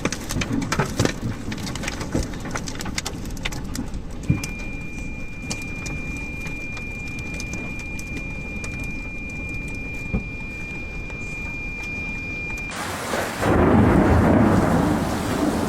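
Rain pattering with many small hits, and a steady high electronic tone through the middle. Near the end it cuts to a much louder storm: heavy rain and a deep rumble.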